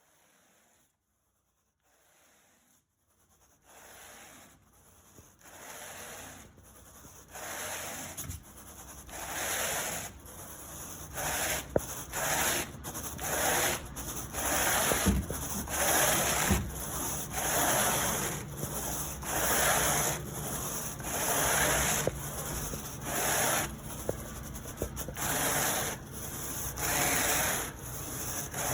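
A carpet rake dragged back and forth through carpet pile: a steady rhythm of scratchy strokes about one a second, growing louder over the first several seconds.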